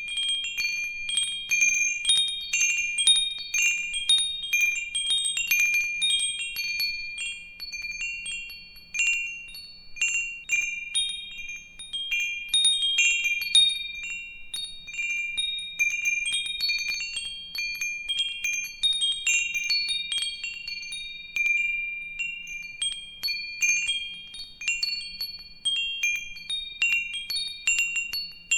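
Metal wind chimes ringing: many high tones struck irregularly several times a second, overlapping and fading.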